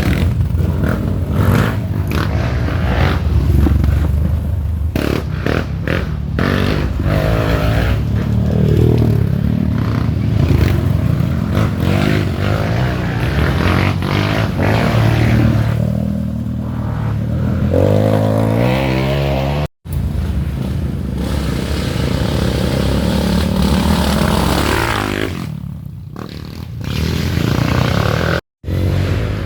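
Dirt bikes revving hard, engine pitch rising and falling again and again as they work through the trail. The sound cuts out briefly twice.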